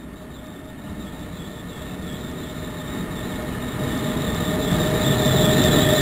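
NJ Transit ALP-46 electric locomotive pulling a passenger train into the station, its wheels' rumble growing steadily louder as it nears, with a steady high-pitched whine over it.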